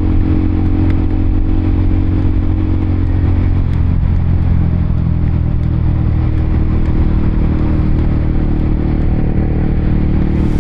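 Honda CBR150R motorcycle's single-cylinder engine running at steady revs while riding, its pitch holding nearly level, with a slight change about four seconds in.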